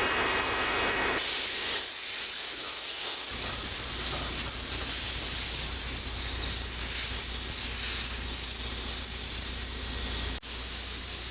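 Compressed starting air hissing out of the open indicator cocks of a MAN B&W 6S60ME-C8.2 two-stroke marine main engine while it is turned over on air: the blow-through done before starting.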